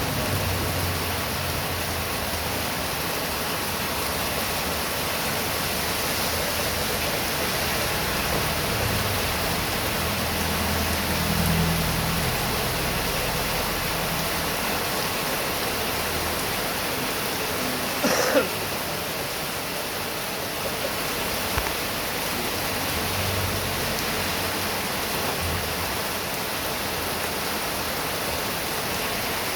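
Heavy rain pouring steadily, with a low rumble coming and going underneath. A sudden sharp knock cuts through about eighteen seconds in, louder than the rain, and a smaller one follows a few seconds later.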